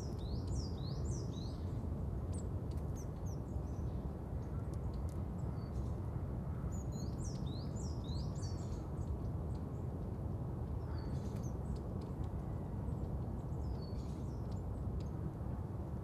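Small birds chirping in quick runs of short, high chirps that come and go in a few clusters, over a steady low outdoor rumble.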